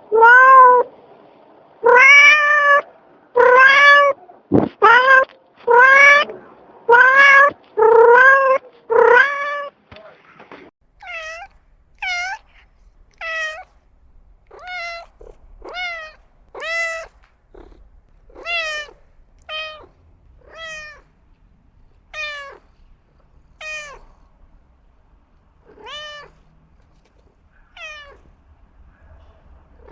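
A cat meowing over and over, about once a second: loud, lower meows for the first ten seconds, then a quieter run of shorter, higher meows that fall in pitch.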